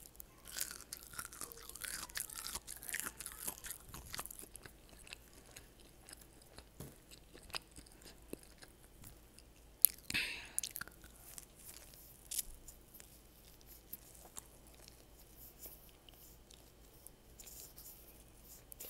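Close-up chewing and biting of a breaded, fried jalapeño popper: crunching of the crust and wet mouth clicks, with a louder bite-like burst about ten seconds in.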